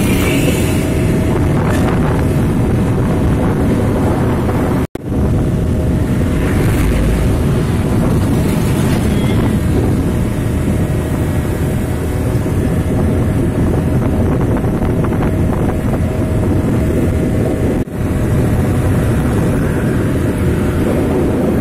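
Loud, steady rumble of a vehicle on the move, engine and road noise with wind buffeting the microphone. The sound cuts out abruptly for an instant twice, about five seconds in and near the end.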